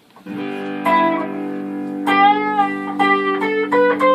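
A guitar G chord rings on while a guitar lead line plays over it: a held note, a bent note, then quick triplet notes walking up the scale toward G.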